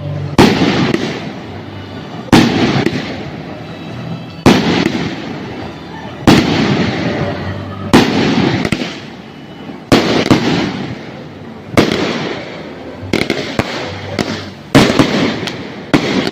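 Fireworks going off one after another: a sharp bang about every two seconds, each trailing off in a fading crackle.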